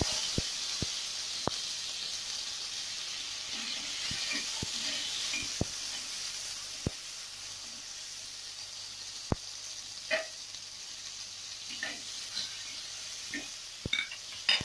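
Onion and tomato pieces sizzling in hot oil in a clay pot, the hiss slowly dying down after they go in. Sharp pops come now and then, and in the second half a metal spoon scrapes against the clay as the vegetables are stirred.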